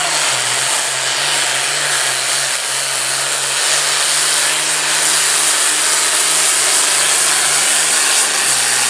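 Pulling truck's engine running flat out under load while dragging the sled: a loud, steady drone under a heavy hiss, its pitch sagging slightly near the end.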